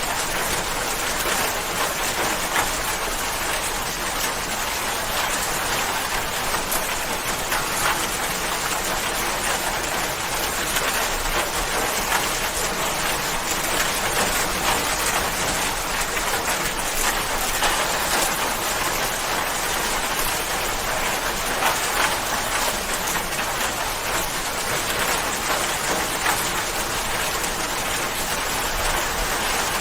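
Steady rain falling, an even hiss with many small drop impacts ticking on a surface.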